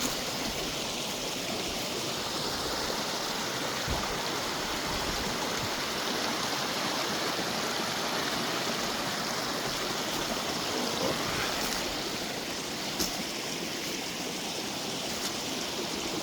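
Small mountain creek flowing steadily over rocks, an even rushing of water, with a couple of faint knocks.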